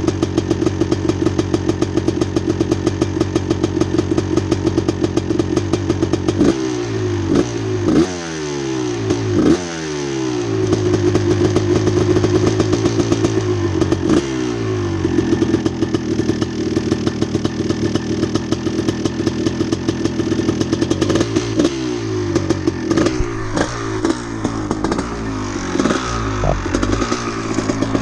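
1989 Honda CR250's two-stroke single-cylinder engine running during warm-up, idling steadily and blipped on the throttle a few times about a third of the way in and again near the end.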